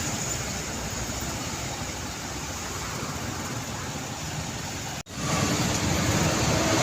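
Road traffic noise, heavy trucks driving past with a steady rush of engines and tyres. It cuts out abruptly about five seconds in and comes back louder.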